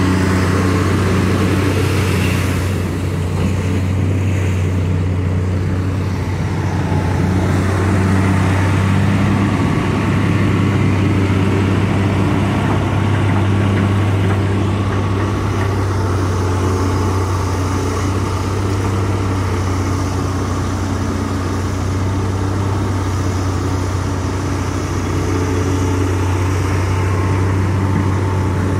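Hitachi EX200-5 excavator's six-cylinder diesel engine running steadily under working load, swelling slightly as the hydraulics work the boom and bucket, with a faint high whine in the later part.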